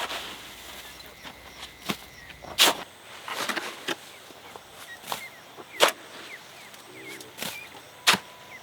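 Sharp knocks and cracks at irregular spacing, several seconds apart, typical of work on a wooden or bamboo structure, with faint chick peeps in between.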